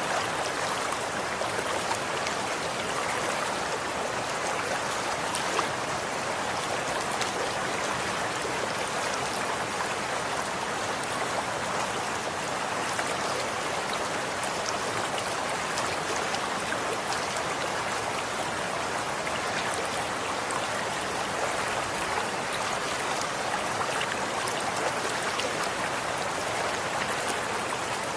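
Running water from a stream flowing steadily: an even rushing with small splashes and drips scattered through it.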